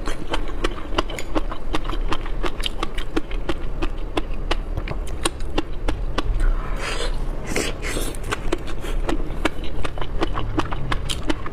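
Close-miked chewing and mouth sounds of someone eating raw shrimp: a dense run of quick wet clicks and smacks, with a brief hiss about seven seconds in.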